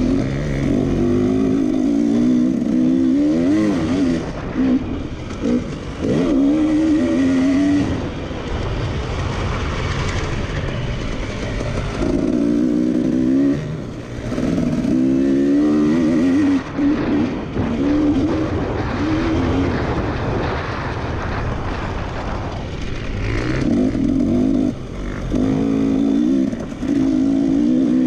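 Racing engine running hard on a track, its pitch rising and falling repeatedly as the throttle is worked, with a few brief lifts off the throttle.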